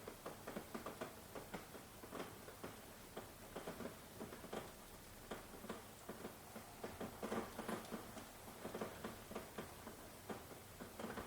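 Rain pattering over a steady hiss, with many irregular individual drops tapping close by.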